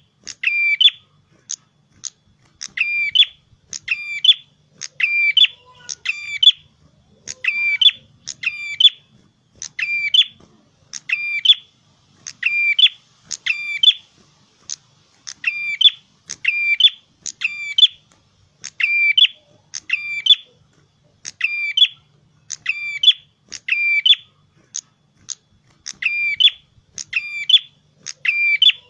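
A prenjak kepala merah, a small Indonesian songbird, calling in full song: a sharp, high double note repeated about once a second, with a few brief pauses.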